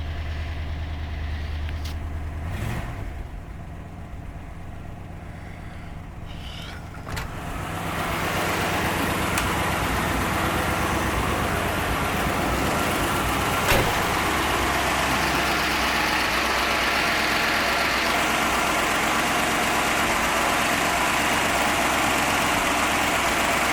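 1957 Monarch's 312 V8 idling after a cold start. About a third of the way in the sound turns louder and more hissing, a rushing noise over the steady idle, with one sharp click later on.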